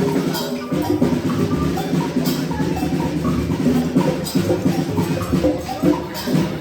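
Many small percussion instruments played at once by a group, with no common beat: a dense jumble of overlapping knocks and short ringing pitched notes.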